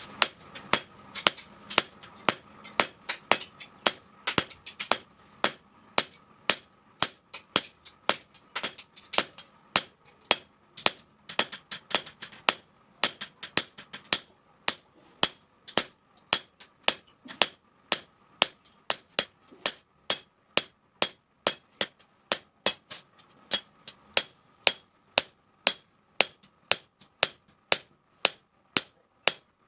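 Blacksmith's hammer striking the steel of a chain sprocket on an anvil, a steady run of ringing blows about two to three a second with a few brief pauses, over a faint steady hum.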